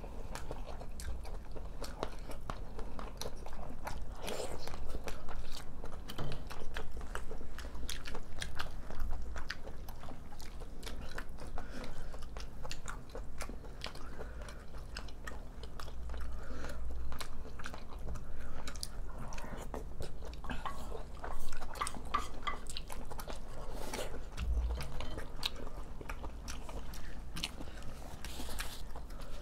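Chewing and biting of two people eating spicy squid and pork rice bowls, with many small, irregular wet mouth clicks.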